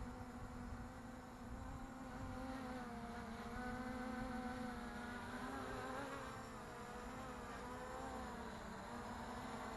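Buzzing whine of a 3D-printed DJI Mavic-clone quadcopter's motors and propellers in flight, the pitch wavering slightly up and down and a little louder midway.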